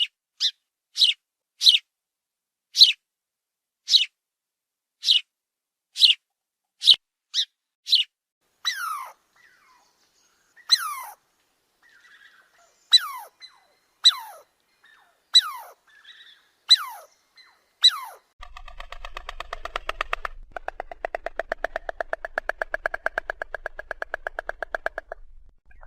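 Animal calls: a string of short, sharp chirps, each falling steeply in pitch, about one a second. After about 18 seconds a different call follows, a fast, buzzy rattle.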